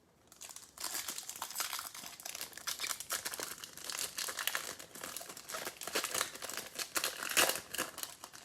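A foil trading-card pack wrapper being crinkled and torn open by hand: a dense, continuous run of crackles starting about half a second in.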